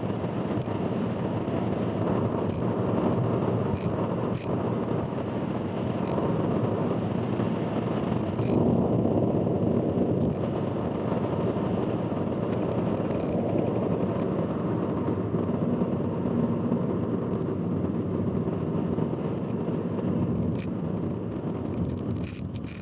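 Steady rumble of a car driving on an expressway, tyre and engine noise heard from inside the car, with scattered sharp clicks and crackles through it.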